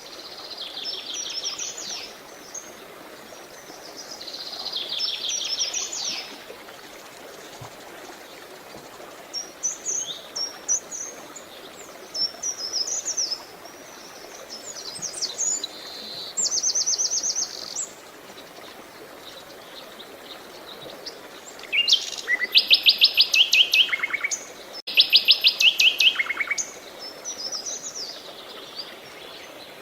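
Songbirds singing a series of short phrases, each a fast run of repeated high chirps. The two loudest trilled phrases come about three quarters of the way through. Under them runs a steady soft rush of flowing water.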